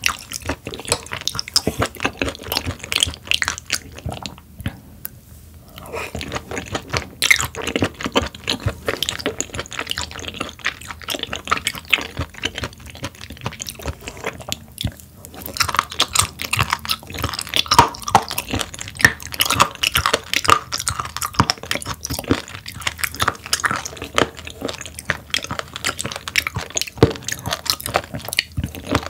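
Close-miked wet chewing and crunching of raw sturgeon sashimi, dense irregular mouth clicks and crackles with two short pauses, one about four seconds in and one near the middle.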